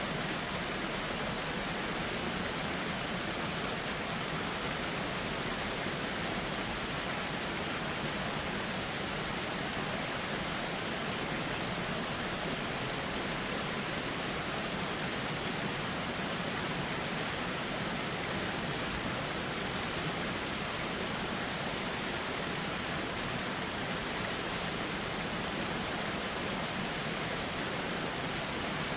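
Flowing river running steadily: an even, unbroken rushing hiss of water.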